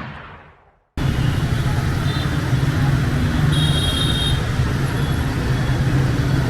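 A whoosh sound effect fades out in the first second and then cuts off. Steady city street traffic noise follows, with engines running, and a brief high-pitched tone comes in about three and a half seconds in.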